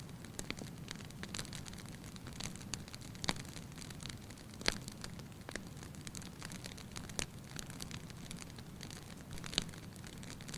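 Fire crackling in a fireplace: a steady low rumble of flames with irregular sharp pops and snaps, a few of them louder than the rest.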